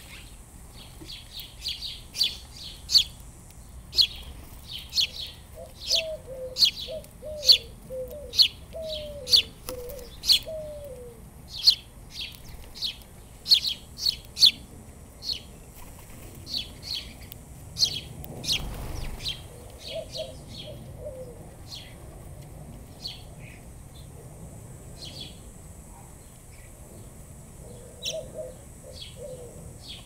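Small birds chirping: many short, high chirps, busiest through the first half and sparser later. Runs of a lower, repeated, falling call come in around a third of the way through and again twice later.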